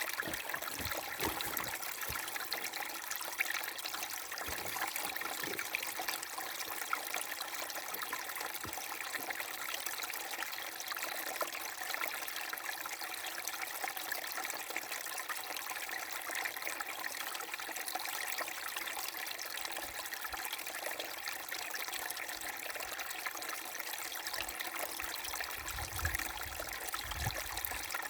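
A small brook babbling and trickling over stones: a steady, even rush of running water with bright splashy flecks.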